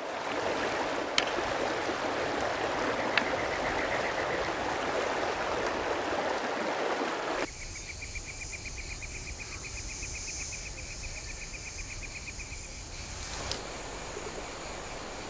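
Steady rushing of running water, which cuts off abruptly about halfway through. A quieter stretch follows with a high chirping trill repeating at about five pulses a second. The rushing noise returns near the end.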